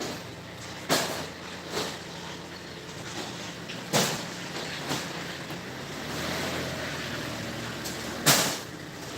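Crates of soft-drink bottles being handled during unloading: about five sharp knocks and clatters, the loudest near the end, over a steady low engine hum.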